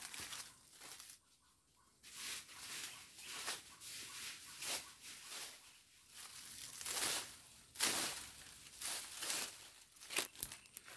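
Irregular rustling and crunching noises coming in short bursts, with a brief lull about a second in.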